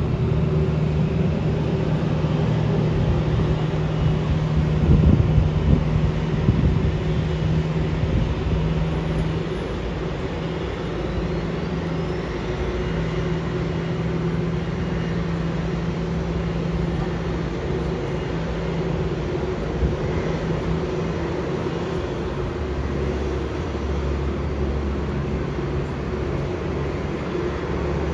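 Steady low engine hum with a few constant tones during an Airbus A330 pushback, from the pushback tug and the airliner on the apron. It swells briefly about five seconds in, then settles.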